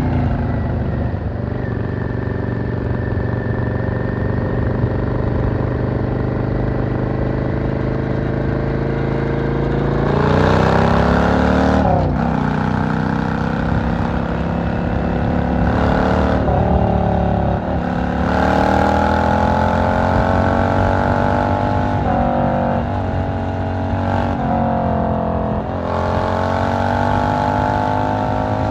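V-twin cruiser motorcycle engine running steadily at low revs for about ten seconds, then pulling away: the revs climb and drop sharply at gear changes three times, then settle into an even cruise with brief throttle lifts near the end.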